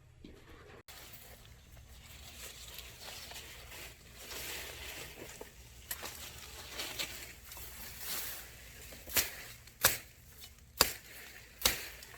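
A faint hiss, then about three quarters of the way in a series of sharp knocks, roughly one a second.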